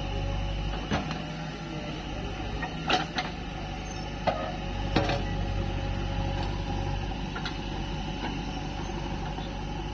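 Diesel engine of heavy machinery running steadily with a low drone and a faint whine, while several sharp metallic knocks sound at irregular intervals.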